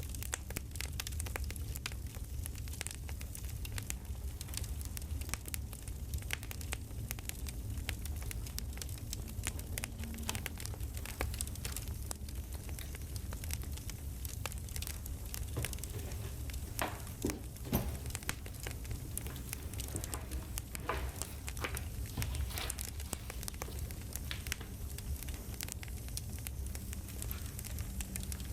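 Crackling campfire: a steady low rumble with a constant scatter of small pops and snaps, a few of them louder about two-thirds of the way through.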